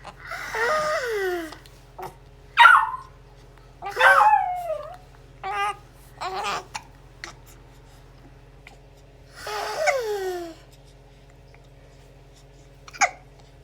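A baby making high-pitched vocal noises, about seven short separate calls with pauses between them. Most glide down in pitch, some are breathy, and two are brief sharp squeaks. The longest call comes around ten seconds in.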